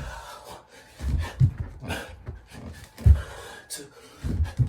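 Heavy panting breaths of a man in the middle of a set of two-pump burpees, with irregular heavy thuds as his hands and feet land on the floor.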